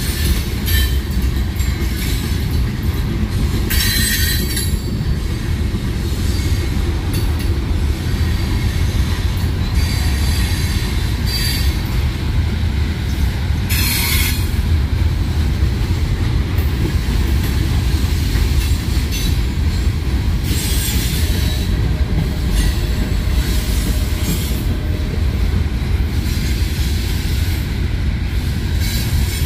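Freight train cars rolling past at close range: a steady low rumble of steel wheels on rail, broken a few times by short, high wheel squeals.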